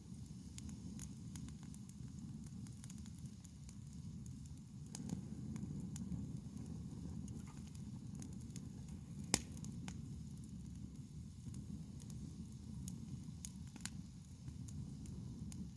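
Wood fire burning, with scattered sharp crackles and pops of the burning wood over a low steady rumble; one louder pop about nine seconds in.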